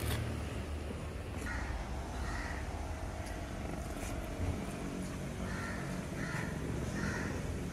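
A bird calling about five times in short separate calls over a steady low rumble.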